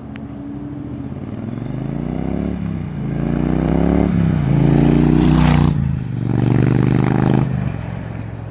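Triumph T120 motorcycle's parallel-twin engine revved through its exhaust from idle, blipped up and back down about four times, the highest rev about five seconds in, then dropping back to idle near the end.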